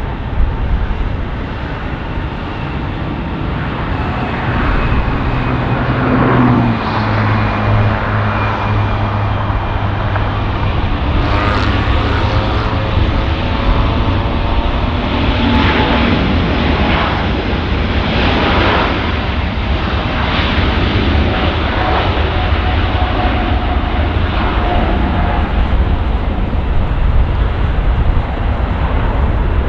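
Widebody jet airliner taking off on full thrust: loud, steady jet engine noise with a low drone and faint whines that shift in pitch as it passes.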